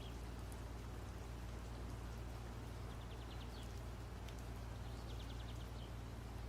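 Steady low electrical hum and hiss of room tone, with faint, quick high chirping trills about three seconds in and again near five seconds.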